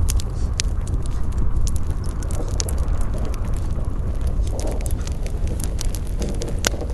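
Campfire burning, with frequent sharp crackles and pops over a steady low rumble; a few louder pops come near the end.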